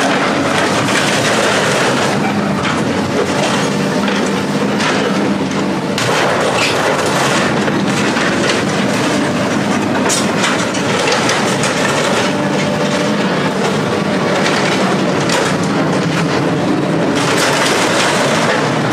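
A heavy engine running steadily under a continuous din of metal rattling, with frequent short knocks and clanks.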